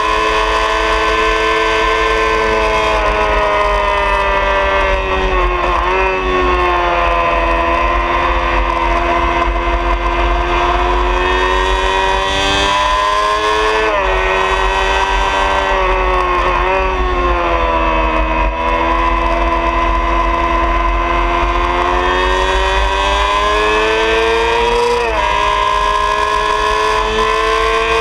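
A 2003 Honda CBR600RR's inline-four engine at high revs under hard acceleration. Its pitch climbs steadily, then drops sharply at each gear change, about four times. Wind rushes steadily over the bike-mounted microphone.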